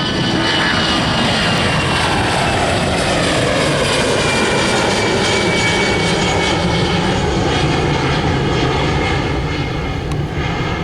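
Airliner's jet engines roaring as it passes close by, the whine sliding down in pitch over the first few seconds, then a steady loud rumble.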